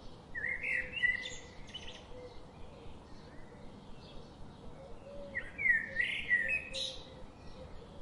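A songbird singing two short, complex warbled phrases, one near the start and one about five seconds later, with fainter chirps from other birds in between.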